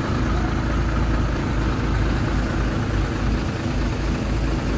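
Heavy diesel engine of earthmoving machinery running steadily at low revs, a constant low rumble.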